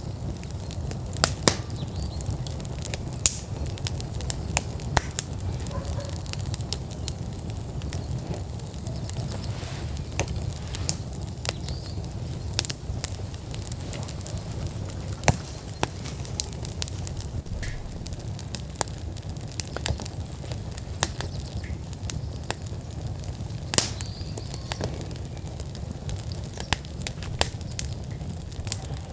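Wood fire in an outdoor fire pit burning at full burn: irregular sharp crackles and pops over a steady low rumble of the flames.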